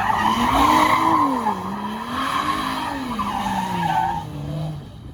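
Car engine revving up and down over and over while its tyres squeal and skid on the pavement, as in a burnout or donuts. Everything dies down shortly before the end.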